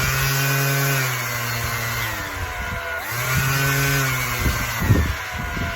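Makita DBO180Z 18V cordless random orbital sander switched on and running with a steady motor hum; its pitch dips about two seconds in and comes back a second later, a few clicks sound near the end, and it winds down with a falling pitch as it is switched off. It is being run through its three speed settings.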